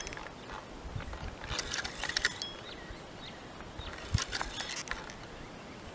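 Fishing reel clicking in two short bursts while a hooked fish is being played, its ratchet sounding as line is wound in or pulled off.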